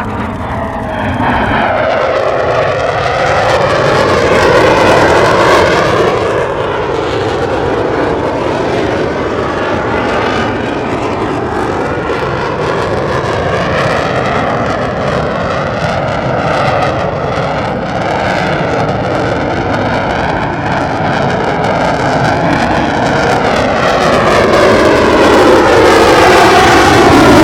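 Lockheed Martin F-35A Lightning II's single Pratt & Whitney F135 afterburning turbofan running loud through a demo pass. Its tone sweeps up and down as the jet moves, swelling a few seconds in and again near the end.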